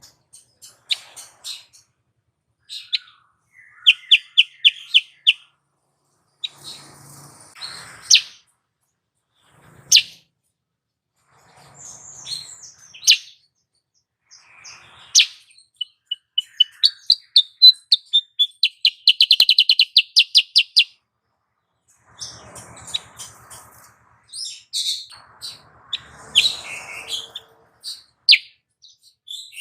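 Female kutilang sutra bulbul calling: sharp chirps and short rapid trills, with a longer fast trill in the middle, the female's call used to lure and excite males.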